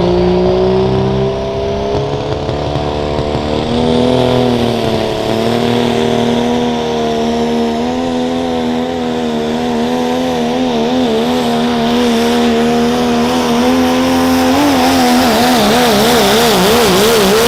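Diesel pickup truck engine at full throttle pulling a sled. Its pitch climbs over the first second or so, then holds high and wavers up and down, the wavering growing stronger near the end.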